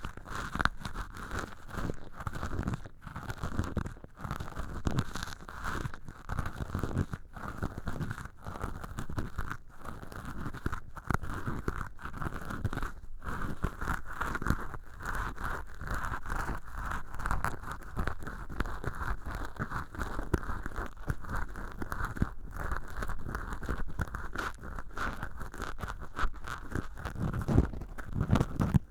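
Cotton swab rubbing and scratching inside an ear canal made from acrylic dish-scrubber sponge, a close, continuous, crackly rustling with irregular small crunches.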